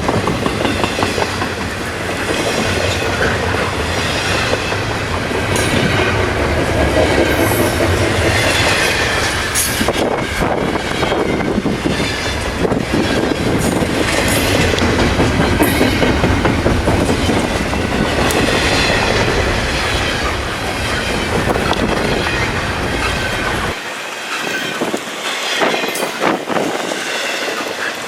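Double-stack intermodal container cars of a long freight train rolling past, wheels clicking over the rail joints with some flange squeal, and wind rumbling on the microphone. The deep rumble drops away near the end.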